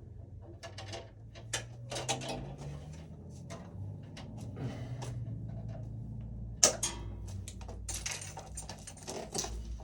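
Irregular clicks, rattles and light knocks of tools and wiring being handled at a breaker panel, with one sharp click about two-thirds of the way through.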